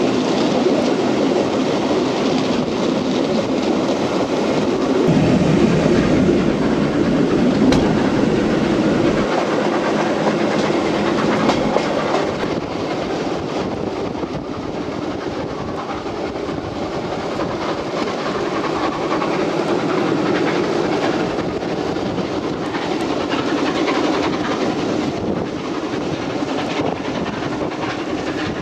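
Passenger train hauled by the A4 steam locomotive 60009 Union of South Africa, running steadily and heard from a carriage window: continuous running noise with wheels clattering over the rail joints.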